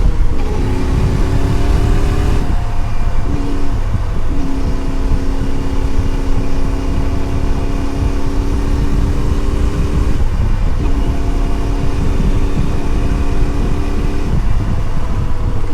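Adventure motorcycle engine running steadily under way, its note breaking and changing pitch briefly about four times, as in gear changes or throttle lifts, over a heavy low rumble of wind and road noise.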